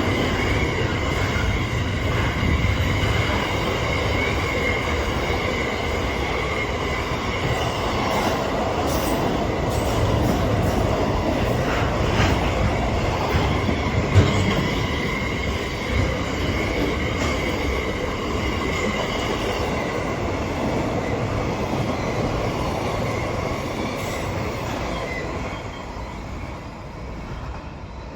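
A train running through the station, a steady rumble with a thin high wheel squeal over it. There is a sharp knock about halfway through, and the sound fades near the end.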